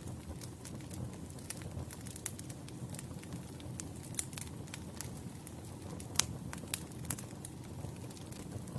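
Wood campfire burning, with a steady low rumble of flames and frequent sharp crackles and pops of splitting firewood, a few louder pops in the second half.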